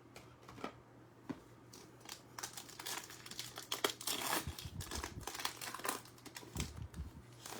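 Plastic trading-card pack wrapper crinkling and tearing as a pack is ripped open, after a few light clicks. The crinkling starts about two seconds in and is loudest around the middle.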